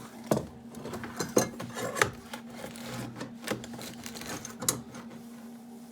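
Steel hitch parts handled and fitted by hand: scattered sharp metal knocks and clinks with some scraping, over a steady low hum.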